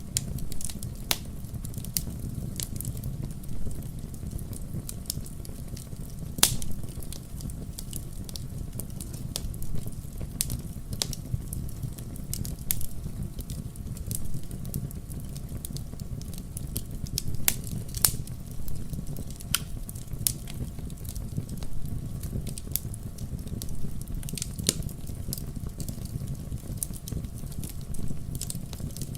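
Wood fire crackling in a fireplace: irregular sharp pops and snaps over a steady low rumble of burning, with a couple of louder pops along the way.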